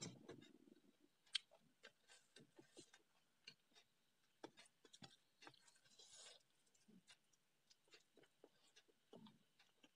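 A person eating rice and curry with her fingers, close to the microphone: faint chewing with many scattered mouth clicks and smacks.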